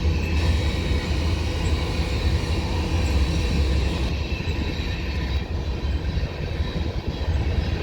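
A freight train (a garbage train) passing, a steady low rumble, heard from inside the depot building.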